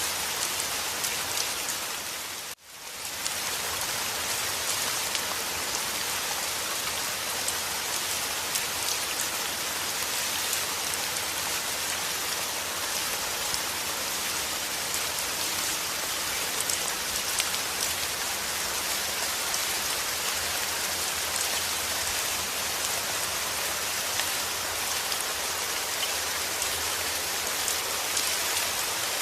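Steady rain falling and pattering on surfaces. It briefly drops out about two and a half seconds in, then carries on unchanged.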